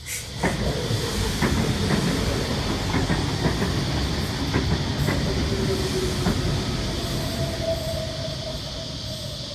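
V-set electric train running along the platform, its wheels clicking irregularly over rail joints with a hiss. A thin steady squeal comes in during the second half as the noise fades.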